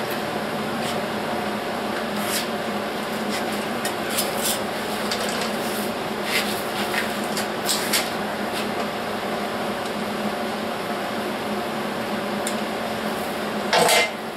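Welding arc on the wheelhouse sheet metal, a steady hiss with a few sharp ticks, laying short beads between existing spot welds. A louder knock comes near the end.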